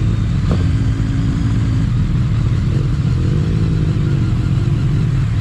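Motorcycle engine running steadily on the move, with a noisy rush over it; partway through, an engine note rises and falls.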